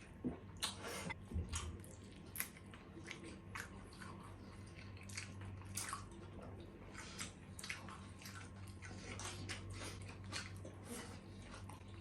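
Close-up eating sounds: a person chewing with irregular wet mouth smacks and clicks, over a steady low hum.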